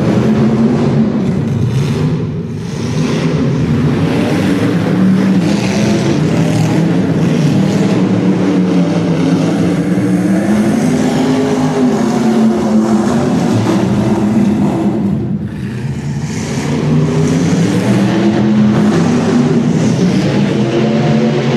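Monster truck engine running loud and revving up and down, easing off briefly twice, about two and a half seconds in and again around fifteen seconds.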